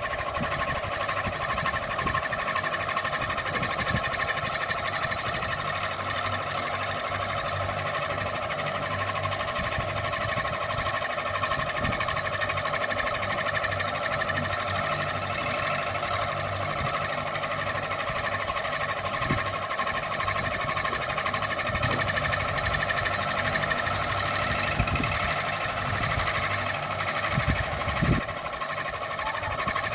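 Ceiling fan running with a steady hum.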